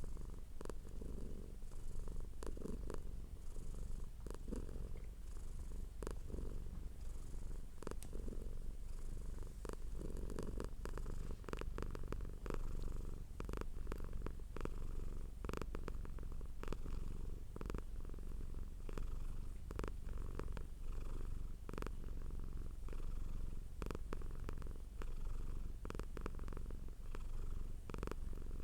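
Domestic cat purring hard and steadily close to the microphone, a continuous low rumble, with scattered short clicks throughout.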